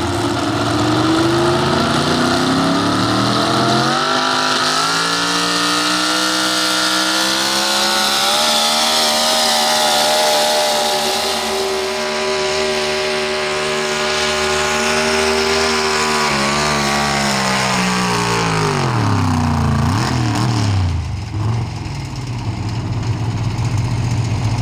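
Pro stock 4x4 pulling truck's engine revving up over the first few seconds and held at high revs through a pull. It then drops back to a low idle about twenty seconds in.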